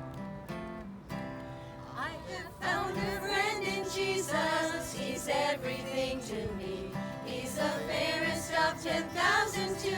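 Acoustic guitar strumming a gospel hymn, with a voice coming in singing the melody about two seconds in.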